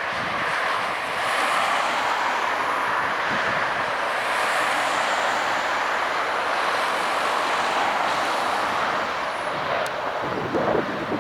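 Jet airliner engines close by, a loud steady rushing noise with a faint high whine over it. Near the end, wind buffets the microphone.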